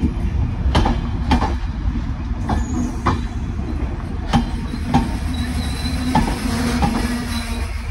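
Diesel passenger train pulling out, its coaches rolling past with a steady low rumble and irregular sharp clacks of wheels over rail joints.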